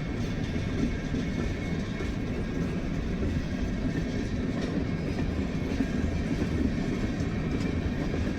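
Freight train cars rolling past at speed: a steady rumble of steel wheels on rail.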